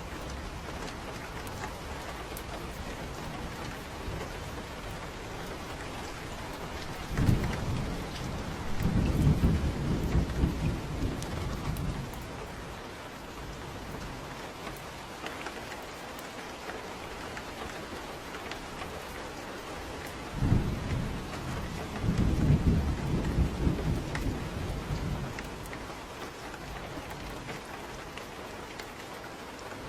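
Steady rain with two rolls of thunder. Each starts with a sharp crack, the first about seven seconds in and the second about twenty seconds in, and rumbles on for several seconds.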